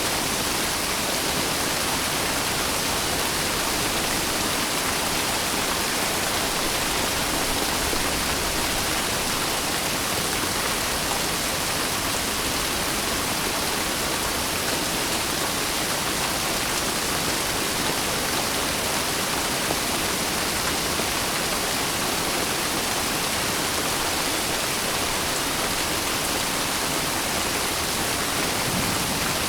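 Steady rain falling, a constant even hiss of heavy rainfall with no distinct drops or thunder.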